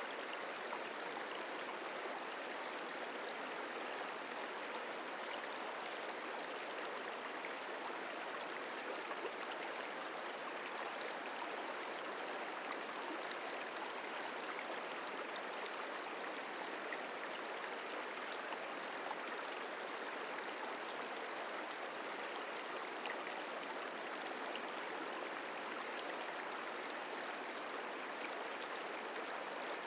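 The Merced River flowing: a steady, even rush of moving water with no change.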